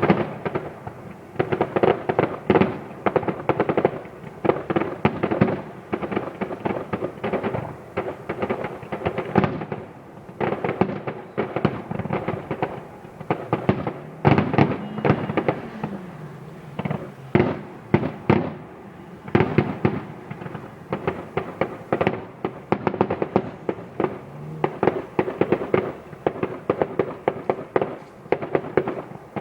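Fireworks display going off non-stop: a dense, continuous run of bangs and crackling bursts, many overlapping each second.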